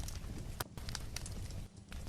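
Wood fire in a fireplace crackling, with irregular sharp pops over a steady low rumble; the sound briefly drops out twice.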